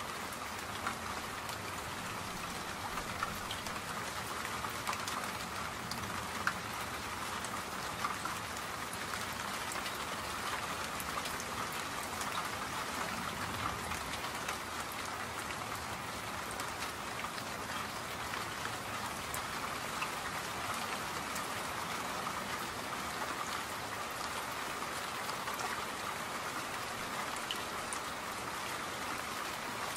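Steady rain falling, an even hiss of rain with many small drop ticks.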